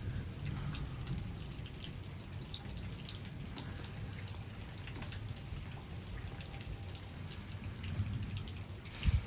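Thunderstorm rain easing off to scattered drops and drips ticking, over a steady low rumble, with one short thump near the end.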